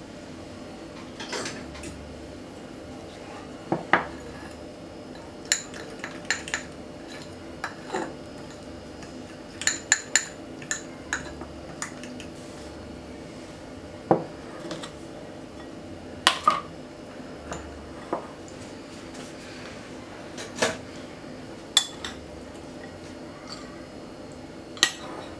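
Kitchen utensils and dishes clinking and knocking: about twenty irregular, sharp clinks, some with a short metallic ring, over a steady low hum.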